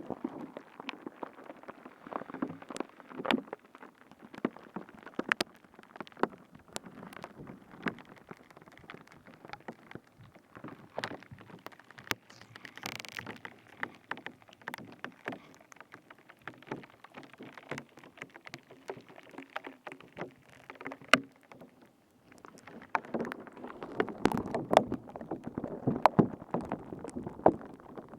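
Close-up ASMR trigger sounds into a binaural microphone: irregular crackles and sharp clicks of material being squished and handled, busier and louder in the last few seconds.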